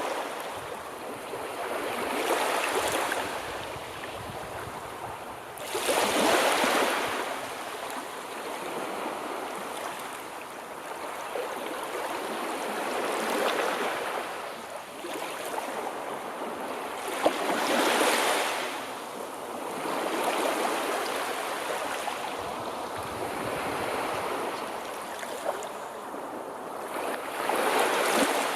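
Sea waves breaking and washing onto the shore, a continuous wash that swells into a louder surge every few seconds.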